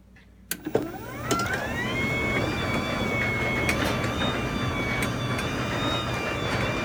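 Craftsman belt-drive garage door opener starting with a click, its motor whine rising in pitch for about a second, then running steadily.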